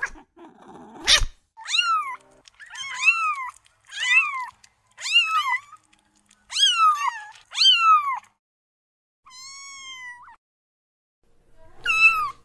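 A kitten mewing again and again: about nine short, high-pitched mews, each rising then falling in pitch, with one longer, flatter mew a little after the middle. A sharp knock about a second in.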